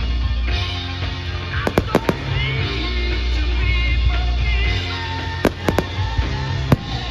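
Fireworks going off in sharp bangs, in a cluster about two seconds in and another group between five and seven seconds in. Loud music with a heavy bass plays throughout.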